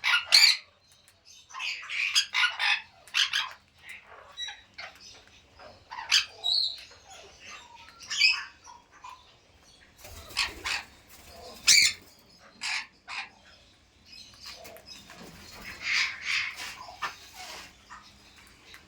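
Pet parrot giving short squawks and chirps at irregular intervals.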